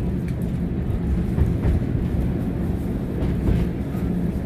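Diesel multiple unit running along the line, heard from inside its front cab: a steady diesel engine drone with the rumble of wheels on the track and a few light clicks.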